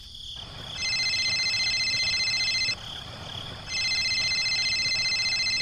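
Telephone ringing: two trilling electronic rings, each about two seconds long, with about a second's pause between them.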